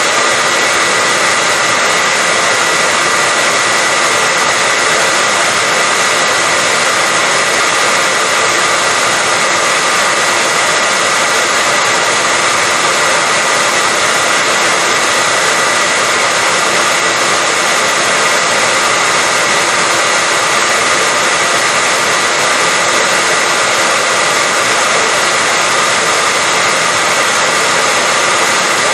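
Hair dryer running steadily on one setting: a constant rush of air with a steady high whine from its motor and fan, played as white noise to lull a baby to sleep.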